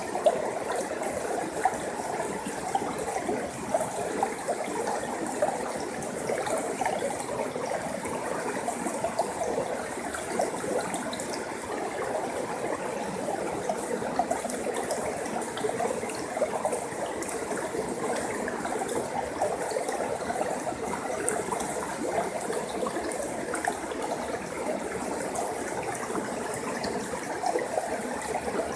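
Forest stream flowing: a steady, even rush of water broken by many small splashes.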